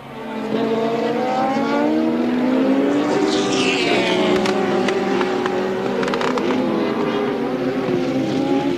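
Several 1983 Formula One cars at racing speed, their engine notes overlapping and rising and falling in pitch as they accelerate and pass. It gets loud about half a second in, and a high whine falls away around three seconds in.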